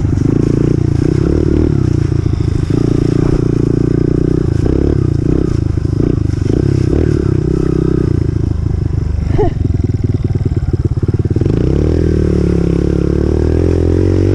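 Honda CRF125F's single-cylinder four-stroke engine running as the dirt bike is ridden, its pitch stepping up and down with the throttle. Near the end the revs rise and fall in a smooth sweep.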